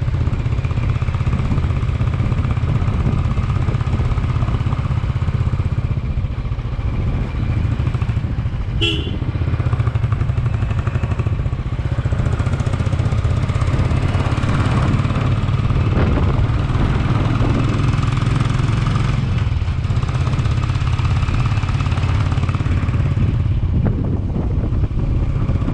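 Motorcycle engine running steadily under way, with heavy low wind rumble on the microphone. A brief pitched tone, like a horn, sounds once about nine seconds in.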